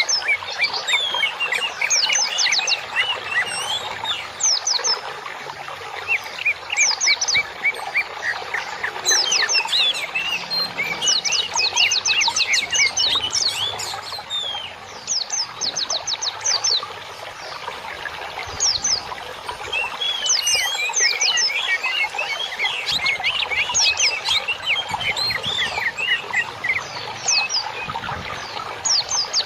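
Songbird song: bursts of rapid, sharp high notes and twittering chatter, broken by short pauses and repeated over and over.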